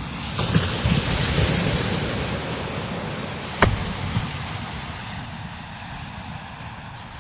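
Strong desert wind gusting over sand dunes and buffeting the microphone with low rumbles. A gust builds about half a second in, there is a sharp thump about three and a half seconds in, and then the wind slowly eases off.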